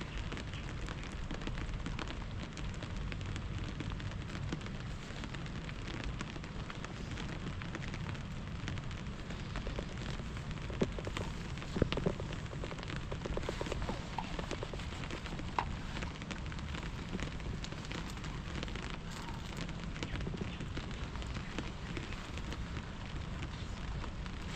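Steady rain falling, with a campfire crackling and a few louder knocks and snaps near the middle.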